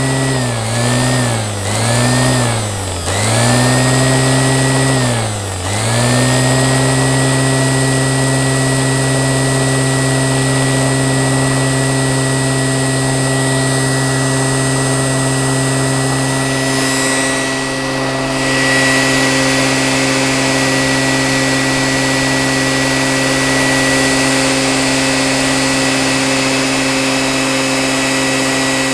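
Rebuilt Qualcast electric motor running with a steady hum. Its speed dips and recovers several times in the first six seconds, then it runs steadily, the tone shifting slightly about seventeen seconds in.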